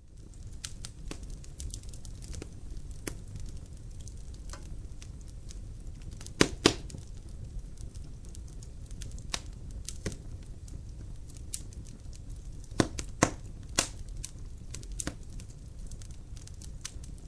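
Wood fire crackling in a fireplace: a steady low rumble of flames with sharp pops and snaps scattered throughout. The loudest are a close pair of pops about six seconds in and a cluster of three around thirteen seconds.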